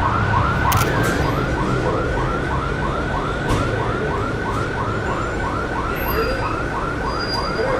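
Emergency vehicle siren in its fast yelp mode: a quick rising wail repeated about three to four times a second, steady throughout, over a low traffic rumble.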